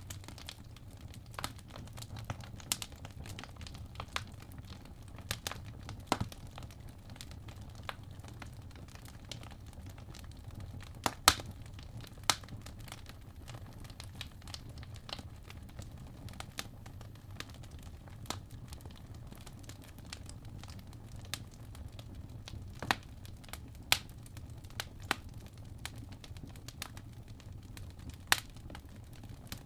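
Wood fire burning in a fireplace: irregular sharp crackles and pops, a few louder snaps among them, over a steady low rumble.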